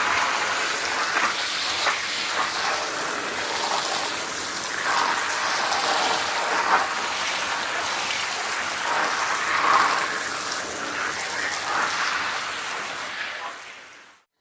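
Water spraying and splashing onto a wet carpet, a steady hiss that fades out near the end.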